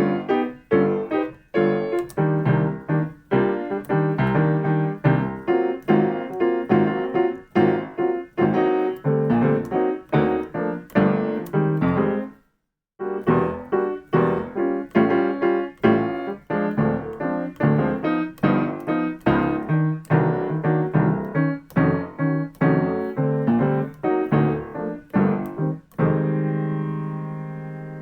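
Solo piano playing jazz comping rhythm patterns: short, rhythmic chord stabs. They stop briefly about halfway through, then resume and end on a held chord that rings and fades.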